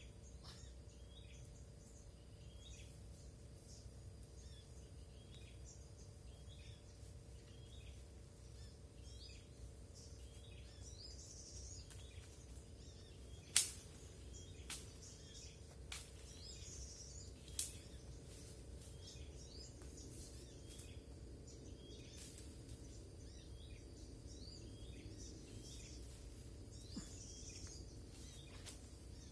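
Small birds chirping: one short chirp repeats about once a second, with a higher call every few seconds. Two sharp clicks come about halfway through.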